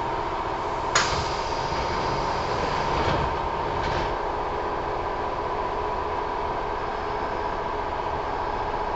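Inside a Kintetsu 1000 series electric train car standing at a station stop: a steady hum from the car's equipment, a sharp knock about a second in, and lighter knocks around three and four seconds in.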